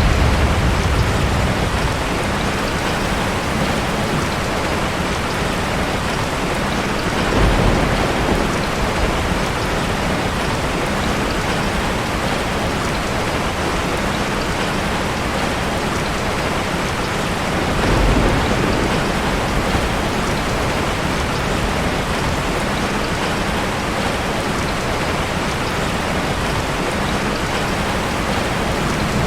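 Steady heavy rainfall, an even hiss of drops on surfaces. Low thunder rumbles swell briefly about 7 seconds in and again about 18 seconds in, and a louder rumble fades out at the very start.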